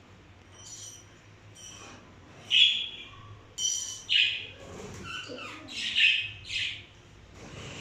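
Pet parrots squawking: about seven short, harsh calls at irregular intervals.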